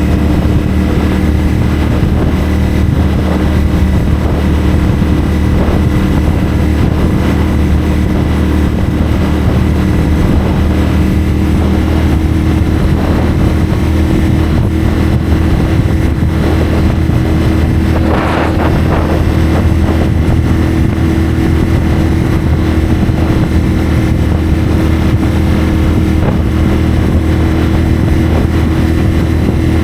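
CFMoto 450SR's parallel-twin engine through a Yoshimura AT2 slip-on exhaust, running at steady, near-constant revs while riding, with wind noise. Revs rise slightly about twelve seconds in, and a brief rushing sound passes about eighteen seconds in.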